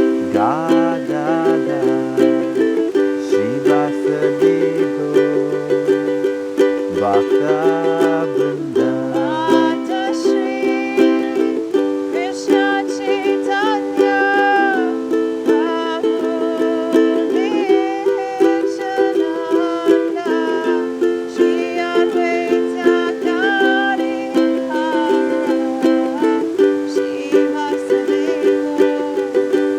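Instrumental kirtan music: a ukulele strumming a repeating chord progression, with a melody line gliding above it. A low bass part drops out about ten seconds in.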